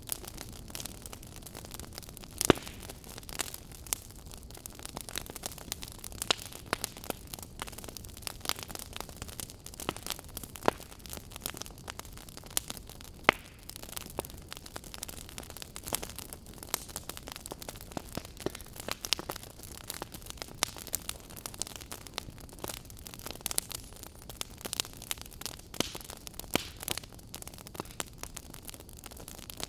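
Burning firewood crackling: a steady hiss of flame with irregular snaps and pops, two of them much louder, one about two and a half seconds in and one about thirteen seconds in.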